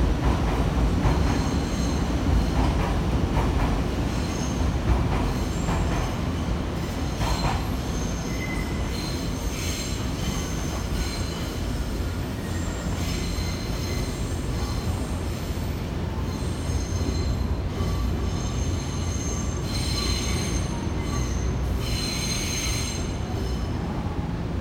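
Nankai electric train running slowly over the station tracks: a steady low rumble with a run of clicks from the wheels over rail joints and points early on, then high squealing from the wheels that comes and goes, loudest in the latter half.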